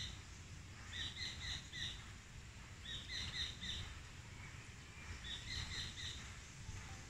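A bird calling in short phrases of four or five quick repeated notes, one phrase about every two seconds, over a faint low rumble of outdoor background noise.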